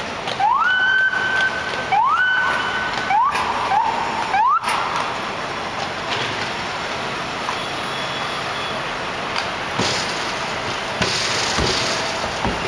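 An electronic emergency-vehicle siren gives five short whoops, each rising quickly and then holding its pitch: two longer whoops, then three quicker ones. City street traffic noise continues after the siren stops, with a few dull thuds near the end.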